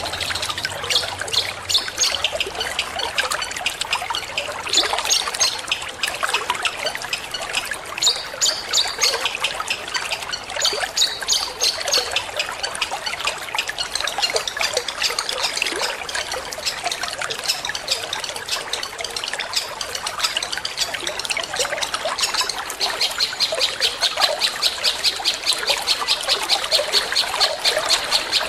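Water trickling steadily, with a long-tailed shrike (cendet) calling over it in short, sharp high notes. In the last five seconds or so the notes turn into a fast, even run.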